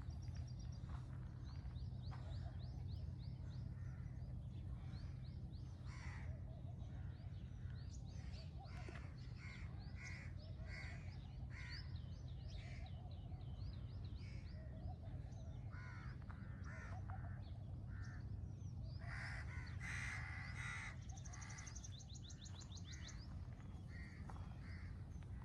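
Birds calling over a steady low rumble: many short calls, one after another, with a fast high trill about twenty seconds in.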